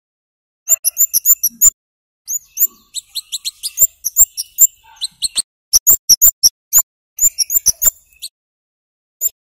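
Flowerpecker (cabean/kemade) calling in quick runs of sharp, very high 'cit' chirps, cluster after cluster with short pauses. It falls quiet near the end apart from one lone note.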